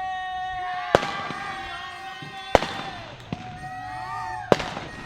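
Consumer fireworks going off, with three sharp bangs about a second and a half to two seconds apart, over music with held, pitched notes.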